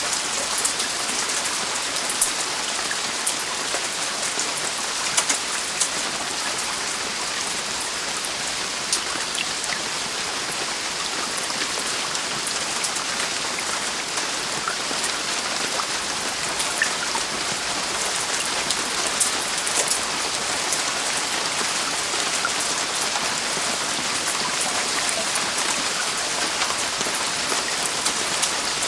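Heavy rain falling steadily on a roof, a dense hiss with many sharp individual drop taps throughout.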